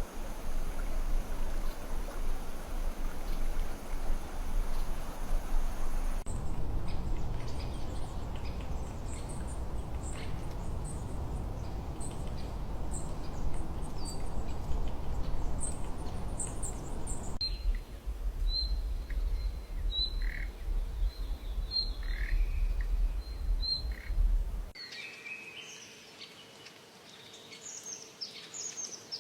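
Songbirds chirping in several spliced recordings: short scattered chirps, then a short high note repeated about once a second, then quieter falling calls. A low rumble underlies the first three-quarters and cuts off suddenly about 25 seconds in.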